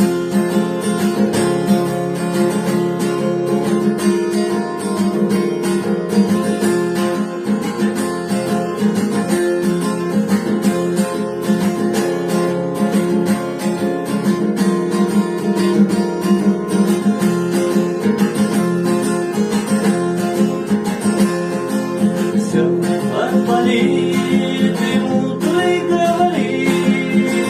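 Acoustic guitar strummed steadily, playing a song's instrumental introduction. A voice begins singing over it near the end.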